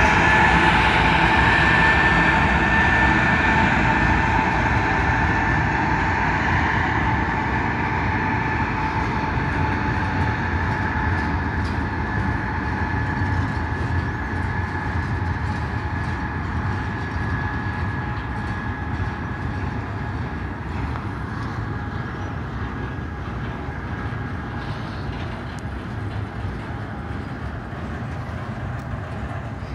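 BNSF double-stack intermodal freight train rolling past: the last locomotives go by at the start, then container well cars pass with a steady rumble of steel wheels on rail and a faint high whine. The sound slowly grows quieter as the locomotives move away.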